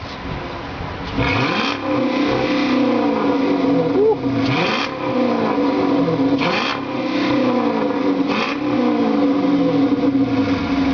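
Dodge Charger's Hemi V8 revved in about four blips, the engine pitch climbing and falling back to idle between each.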